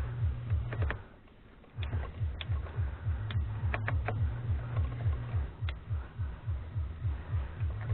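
Background music with a low pulsing bass beat, several beats a second, that drops out briefly about a second in. A few sharp clicks of small metal parts being handled sound over it.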